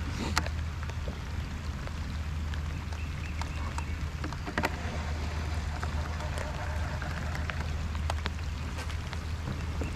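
Steady low hum of a fishing boat's motor, with scattered sharp clicks and knocks, the strongest just after the start and about halfway through.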